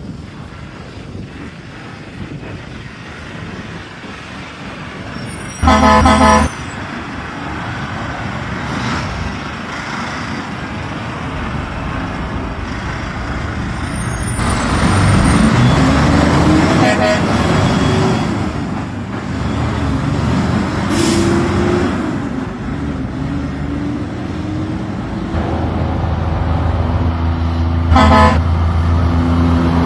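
Truck engine running under load, with a loud short horn blast about six seconds in and another brief blast near the end.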